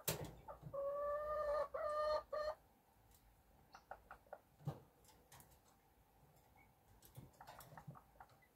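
A sharp click, then a chicken calls: one long, held note followed by a few short notes, over about two seconds. After that only faint scattered ticks and scratches.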